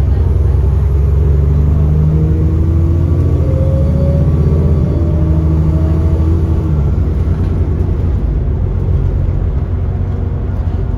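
Alexander Dennis Enviro400 double-decker bus's diesel engine pulling hard under full-throttle kickdown, the engine note climbing and shifting pitch through the automatic gearbox's gears, with a faint high turbo whistle. About seven seconds in the engine eases off and the drive settles.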